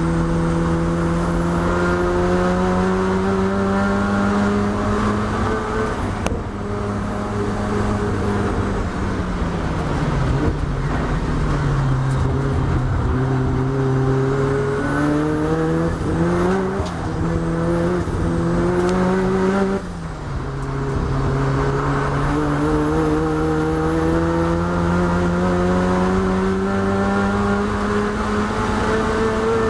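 Mazda RX-7 race car's rotary engine heard from inside the cockpit under hard use. It shifts up about six seconds in, falls in pitch as the car brakes for a corner, then climbs again through the gears with another sharp upshift about two-thirds of the way through.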